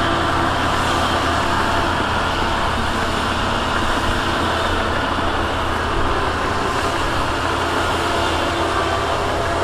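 Diesel engine of heavy earthmoving equipment running steadily under load.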